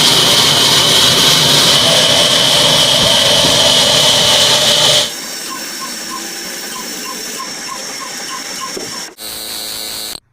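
Old diesel engine and wood-cutting machinery running. A loud, steady mechanical noise with a strong hiss cuts off abruptly about five seconds in. A quieter steady running follows, with a faint regular ticking, and it stops suddenly near the end.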